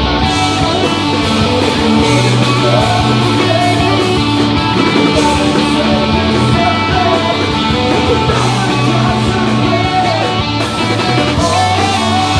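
Pop-punk band playing live: electric guitars, bass and drums, with a singer's voice over them.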